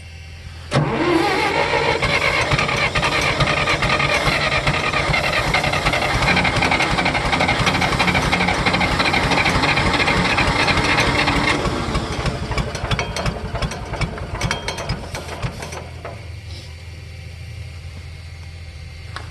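1964 John Deere 1010 tractor's four-cylinder gasoline engine, cold, starting on starter fluid: it catches suddenly about a second in and runs steadily for roughly ten seconds, then stumbles, sputters and dies. It runs only on the starter fluid, a sign of a fuel-delivery problem that the owner suspects is a flooded or dirty carburetor.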